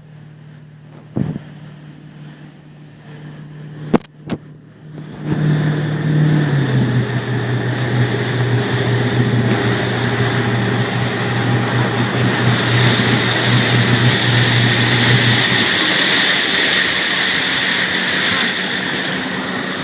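Motorboat engine throttling up about five seconds in, then running at speed with a steady low hum under loud rushing noise. A few sharp knocks come before it.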